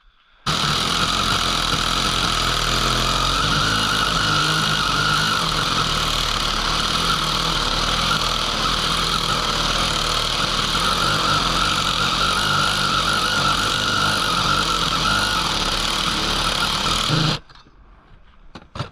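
A power tool runs steadily under load for about seventeen seconds with a high whine, starting just after the beginning and cutting off sharply near the end. It is turning the bolt of a homemade bearing press to draw a bearing out.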